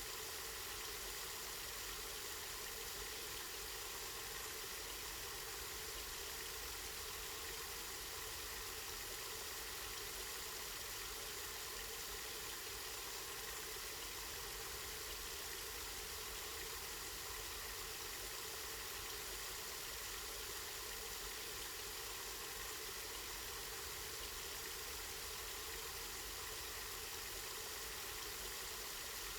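Water from a spring flowing steadily, a continuous even rush with no change, with a low rumble underneath.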